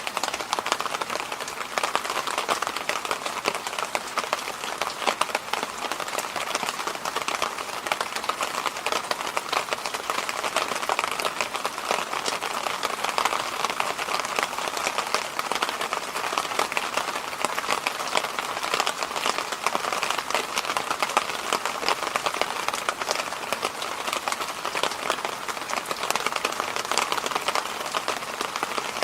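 Electric fan running steadily: an even, unbroken hiss with a slightly stronger band in the middle.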